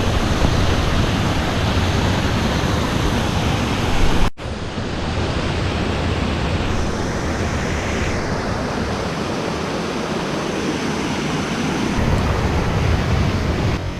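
Steady rush of falling water, loud and unbroken, with wind buffeting the microphone at times. The sound drops out for an instant about four seconds in, at a cut in the recording.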